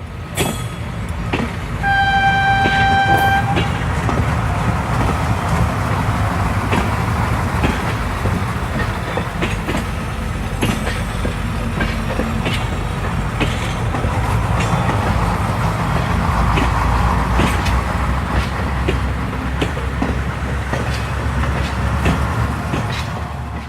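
Passenger train running along the track: a steady rumble with repeated sharp clicks of the wheels over the rails. A single horn tone lasts about a second and a half, starting about two seconds in.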